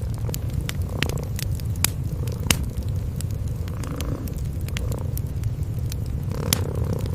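Domestic cats purring steadily under a wood fire crackling in a fireplace, with frequent sharp pops and snaps.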